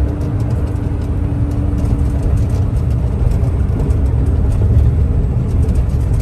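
Large mining dump truck's diesel engine running with a steady low rumble.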